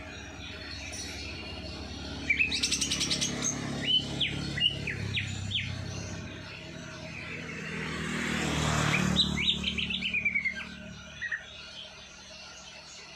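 Songbird chirping and trilling in short phrases: a rapid trill about two seconds in, a few sharp chirps, then another trill near the end. A rushing hiss swells and fades in the middle.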